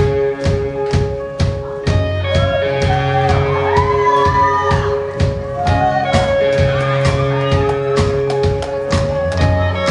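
Live amateur rock band playing: a drum kit keeps a steady beat under held chords and bass, while a lead line bends up and down in pitch in the middle.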